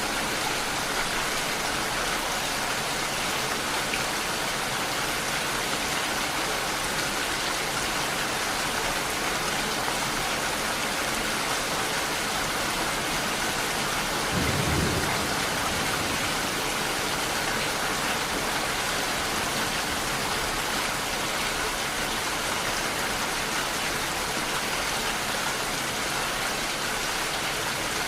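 Steady rain falling, with one brief low rumble of thunder about halfway through.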